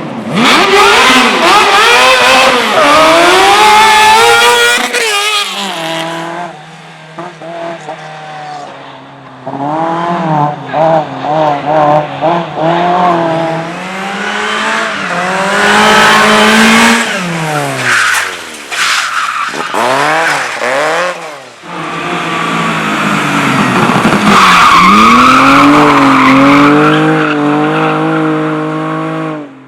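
Competition car engine revved hard over and over, its pitch climbing and dropping as the car is driven at the limit, with tyres squealing and skidding as it slides. It is loudest in the first few seconds and again for a long pull near the end, with a short spell of lower, quieter running between.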